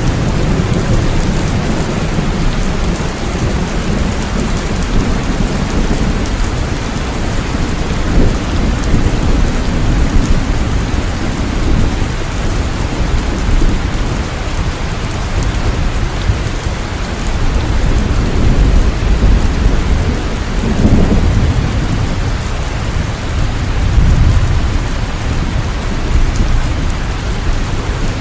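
Steady heavy rain falling, with low thunder rumbling, swelling and fading several times.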